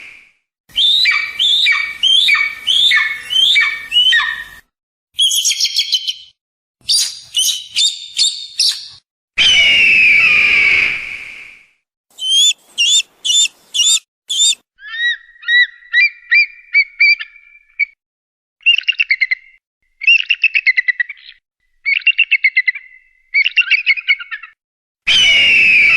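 Bird calls spliced one after another: groups of quick repeated chirps and trills, and about ten seconds in a long, falling, whinnying call of a kite (cheel). Each clip starts and stops abruptly.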